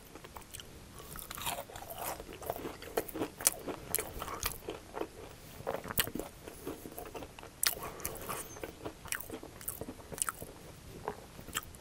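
Close-miked chewing of a crispy fried mashed-potato cake, with many sharp crunches of the breaded crust scattered through the chewing.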